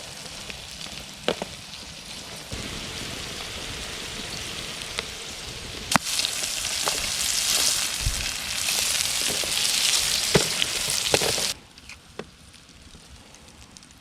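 Steak and potatoes sizzling over an open wood fire, a steady hiss with scattered sharp pops. The sizzle grows louder partway through and cuts off abruptly near the end.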